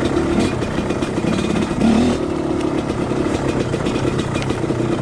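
Two-stroke dirt bike engine running at low to middle revs, with short throttle blips about half a second and two seconds in, amid knocks and rattles from the bike.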